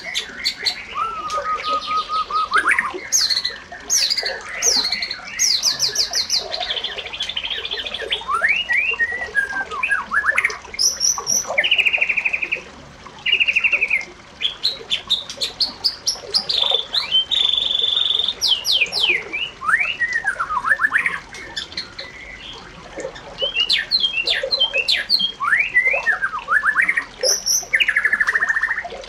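Several birds singing and calling at once: overlapping whistles, chirps and fast trills.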